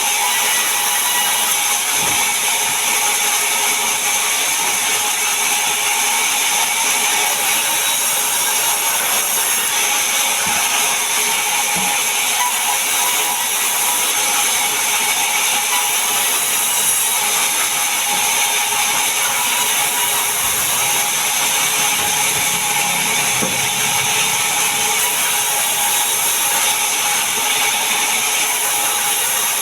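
Power saw cutting mahogany wood: a steady, continuous high-pitched whine with a noisy rasp of the blade in the wood, unbroken throughout.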